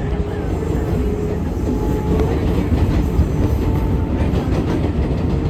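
R188 subway train running at speed, heard from inside the car: a steady rumble of wheels on rail with a faint steady whine above it.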